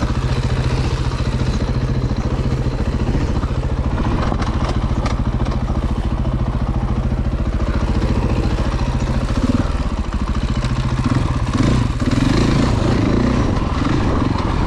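Dirt bike engine running steadily, its firing pulses even throughout, with a brief dip about ten seconds in.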